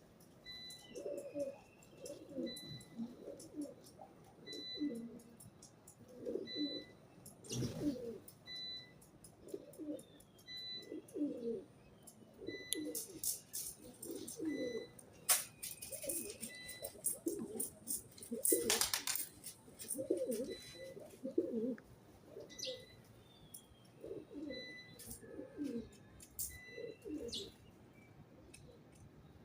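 Pigeons cooing over and over on a rooftop, with a short high peep repeating about once a second and a few small-bird chirps. There are brief bursts of wing flapping or scuffling around the middle.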